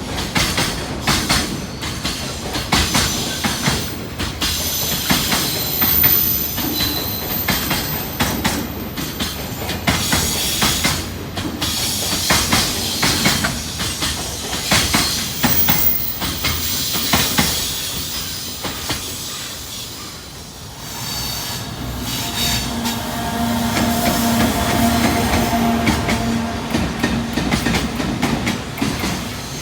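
Freight train rolling past, its wheels clacking over the rail joints with a high wheel squeal. A steady humming tone joins about two-thirds of the way through.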